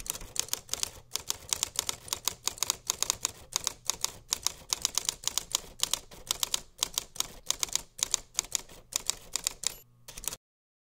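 Typewriter keys clacking in a rapid, irregular run of strikes, several a second, cutting off abruptly about ten seconds in: a typing sound effect for on-screen title text.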